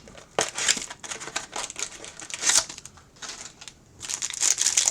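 Trading card pack wrappers crinkling as packs are opened and the cards handled, in irregular crackles and clicks that pause briefly near the end before starting again.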